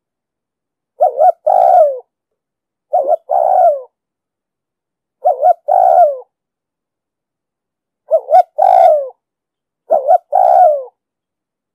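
Spotted dove cooing, five calls about two seconds apart. Each call is two short notes followed by a longer note that falls in pitch.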